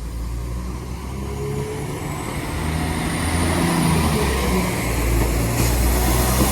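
Class 196 diesel multiple unit pulling away from the station, its engines' low drone growing louder as it accelerates, with a faint high whine that rises and falls midway.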